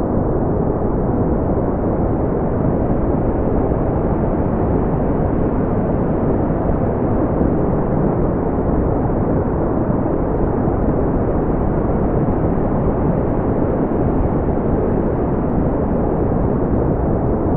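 Steady deep brown noise: a smooth, even rumbling hiss with most of its weight in the low end and no highs, unchanging in level.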